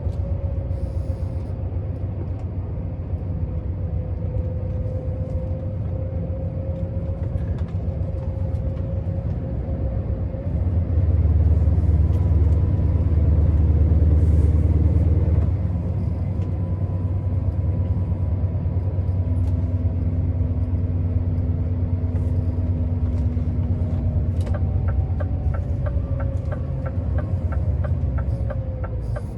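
Scania R650's V8 diesel heard from the cab while driving: a deep, steady rumble that swells louder for several seconds midway. Near the end comes a regular ticking of about three a second.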